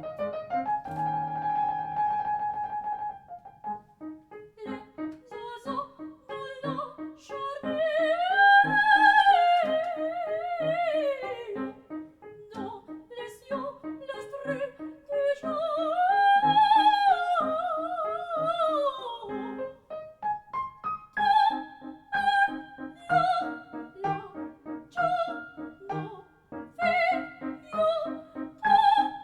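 Coloratura soprano singing an operatic aria with piano accompaniment. There is a held note, then two long vibrato phrases that climb and fall, and near the end a run of quick, detached high staccato notes.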